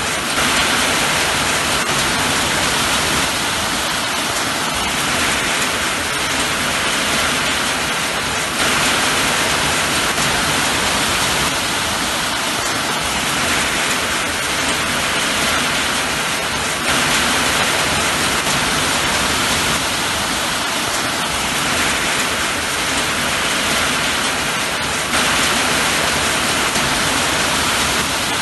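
Steady rain falling, a continuous even hiss of rainfall. The level jumps up slightly every eight seconds or so.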